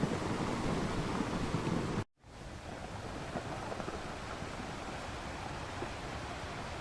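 Ocean waves washing in surf, cut off abruptly about two seconds in. After a brief moment of silence, a softer, even rushing noise follows.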